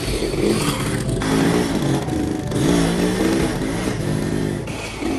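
Small motorcycle engine running and revving, its pitch rising and falling repeatedly.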